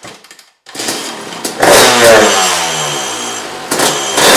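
Two-stroke dirt bike engine revved twice, about two seconds apart; after each sharp throttle blip the revs fall away.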